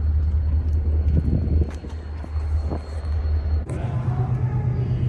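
Low, steady vehicle engine rumble that breaks off abruptly about three and a half seconds in, giving way to a different steady rumble slightly higher in pitch.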